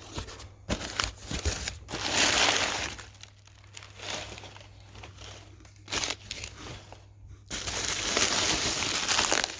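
Packaging crinkling and rustling as a sneaker box is unpacked by hand. Scattered clicks come first, then a loud stretch of crinkling about two seconds in, and steady crinkling again over the last two seconds.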